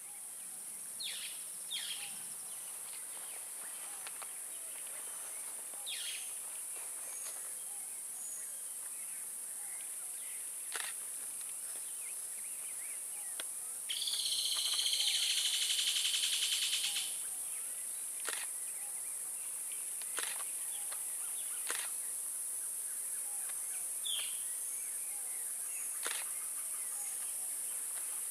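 Birds calling over a steady high-pitched insect drone: a few short falling calls, a loud buzzing trill lasting about three seconds midway, and several sharp clicks.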